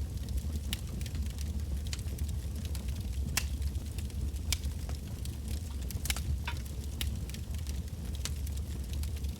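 Campfire of firewood logs burning, with a steady low rumble under irregular sharp crackles and pops, a few coming close together about six seconds in.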